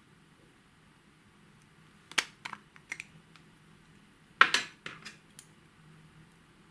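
Small hard objects clicking and clattering together in two short bursts, about two seconds in and again, louder, about four and a half seconds in, like makeup containers or mixing tools knocking against each other or a bowl.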